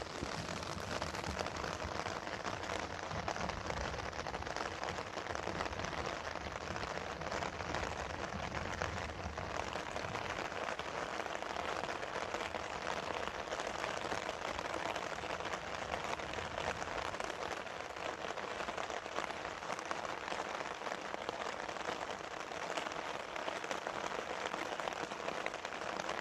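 Steady rain falling, with a dense patter of drops striking the umbrella fabric overhead.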